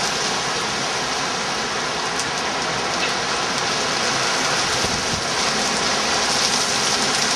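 Heavy rain from a severe thunderstorm pouring down steadily, a dense even hiss of rain hitting the ground.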